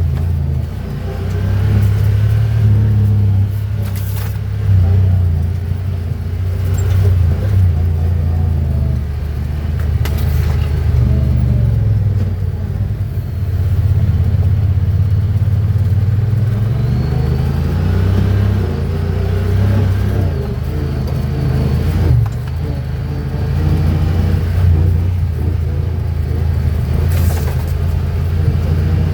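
Honda Pioneer 1000-5 side-by-side's parallel-twin engine running on a trail, its pitch rising and falling with the throttle. A few sharp knocks are heard as the machine goes over rough ground.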